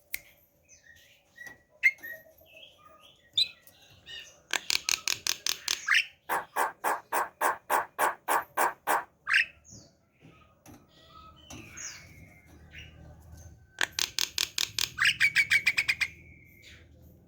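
Javan myna (jalak kebo) singing: scattered chirps, then two long runs of rapidly repeated harsh notes, the second ending in a short held whistle.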